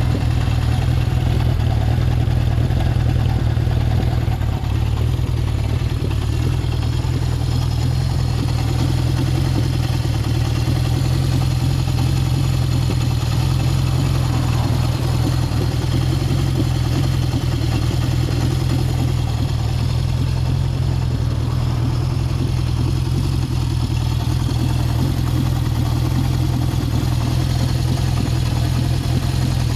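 Honda CB750 Four's air-cooled inline four-cylinder engine running steadily, with no revving.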